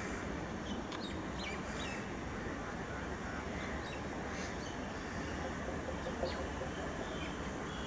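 Steady rumble of a departing passenger train's coaches rolling away over the track. Short, high bird chirps come again and again over it.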